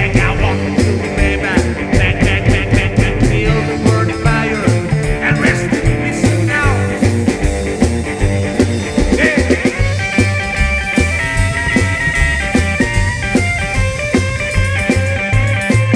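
Rock music with electric guitar over a steady bass and drum beat. From about nine seconds in, the guitar plays a run of quick, evenly repeated notes.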